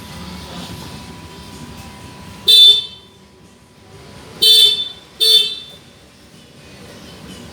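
A vehicle horn sounding three short toots: one about two and a half seconds in, then two close together near the middle, each steady in pitch and loud, over a low steady background rumble.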